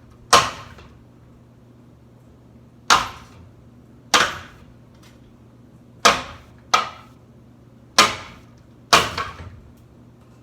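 Seven sharp blows struck against a ceiling fan blade, unevenly spaced, each with a short ringing tail, over a steady low hum. The blows are bending the blade.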